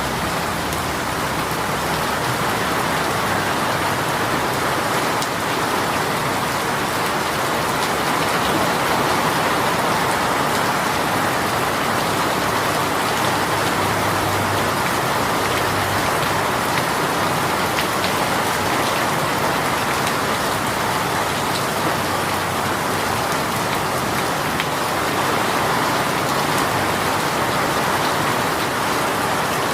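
Rain shower pouring steadily: a dense, even hiss of rain falling on surfaces, without breaks or separate drops standing out.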